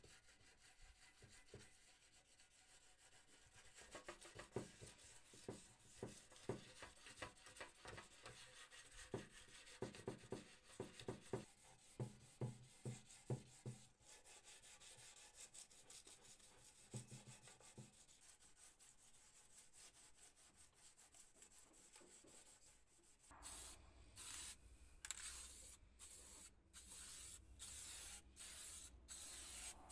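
Repeated hand sanding strokes on the metal mail box, about two a second, fading to lighter rubbing. Near the end, short hissing bursts of spray paint from an aerosol can, about one a second.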